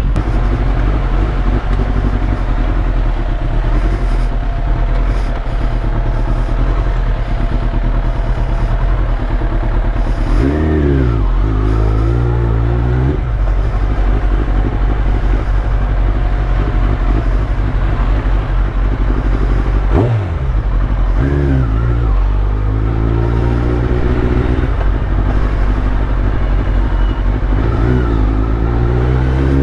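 Kawasaki Ninja ZX-10R's inline-four engine running through a full Akrapovic titanium exhaust, a steady low drone while riding, revving up three times: about ten seconds in, about twenty-one seconds in, and near the end.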